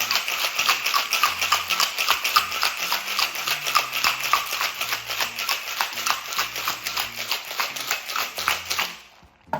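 Ice cubes rattling inside a cobbler cocktail shaker as it is shaken hard, a rapid, even clatter that stops near the end.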